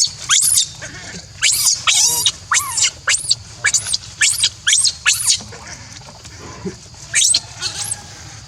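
Baby monkey giving a quick series of high-pitched squealing cries, each rising then falling in pitch, about a dozen in the first five seconds, then two more near the end.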